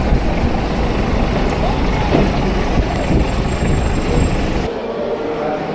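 Steady low rumble of road traffic, with the deep part of the rumble dropping away suddenly near the end.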